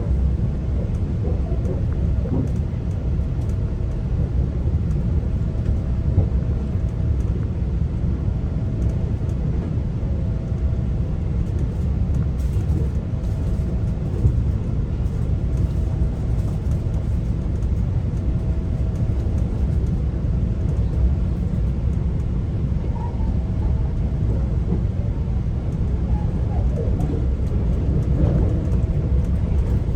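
Steady low rumble of a GO Transit commuter train running along the track, heard from inside a passenger coach, with a faint tone that comes and goes.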